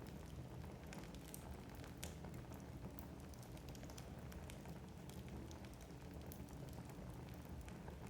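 Wood fire burning in a fireplace: a low steady rumble of flames with frequent small crackles and pops from the logs.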